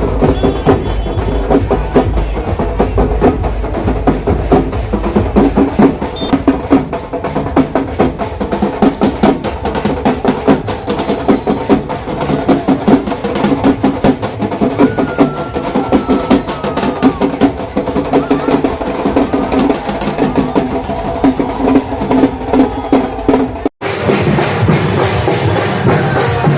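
Music with fast, continuous drumming. About three-quarters of the way through it cuts out for an instant and carries on with a different sound.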